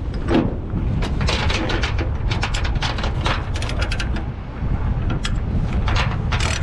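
Load chain and a ratchet binder being worked while strapping down equipment on a flatbed: irregular metallic clicks and clanks, over a steady low rumble.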